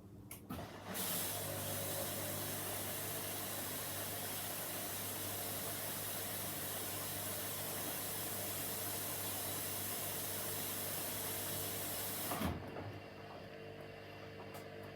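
Washing machine taking in water: the inlet valve clicks open, water hisses steadily into the machine for about eleven seconds, then the valve shuts with a knock. A low motor hum runs underneath and continues after the fill stops.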